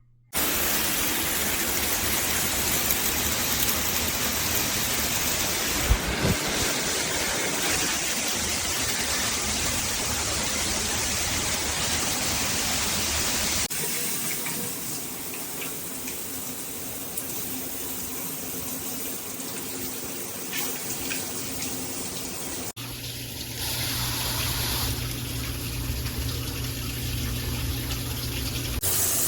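Water spraying steadily from a PWERAN filtered handheld shower head; the sound of the spray changes abruptly twice, about halfway through and again about three-quarters of the way in.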